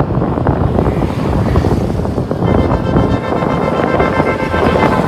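Wind buffeting the microphone, a loud, dense rumble. About halfway through, a faint steady whine of several tones joins it.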